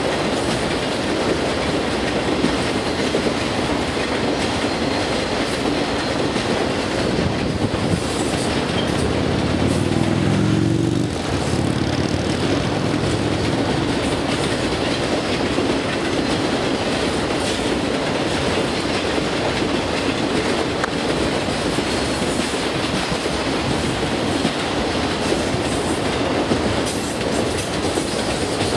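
Canadian Pacific freight train rolling past, its wheels clacking steadily over the rail joints. A low droning tone swells briefly about ten seconds in.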